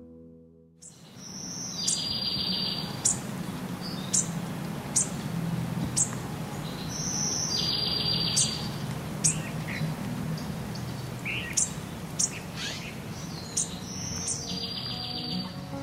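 Woodland songbirds: one bird repeats a short trilled song three times, about six seconds apart, while sharp, high, down-slurred chip notes sound throughout, over a steady low rushing background.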